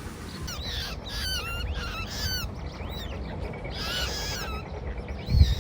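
Waterbirds calling: a quick run of short, arching calls, a few a second, then another short cluster of calls about four seconds in.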